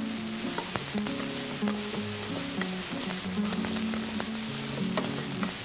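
Vermicelli sizzling as it fries in a pot and is stirred with a wooden spoon, with a few light knocks of the spoon against the pot. Background music with a plucked melody plays underneath.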